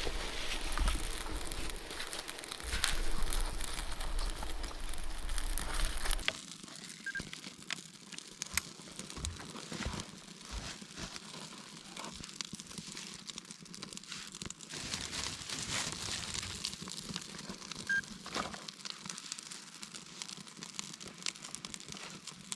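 Crackling and crinkling of dry wood and leaves: a busier rustle with low rumble for about six seconds, then a sudden change to a quieter run of scattered sharp crackles.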